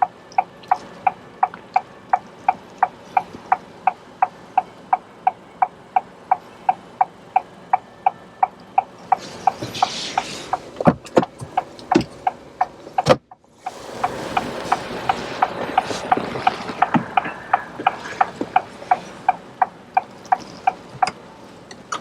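A car's electronic ticking repeats steadily at about three ticks a second, the kind of tick a car gives from its indicator or warning sounder. A few sharp knocks come a little past the middle, followed by a short rush of noise while the ticking carries on.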